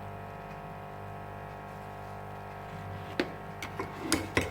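Steady low background hum, then from about three seconds in a spoon tapping and clinking against a bowl several times as coconut flour is spooned into it.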